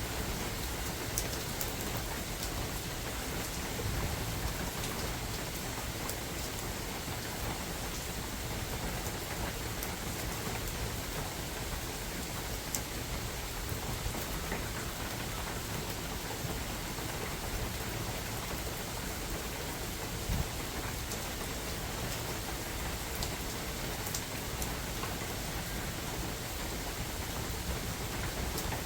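Steady rain falling on a forest, with scattered sharper drops standing out now and then.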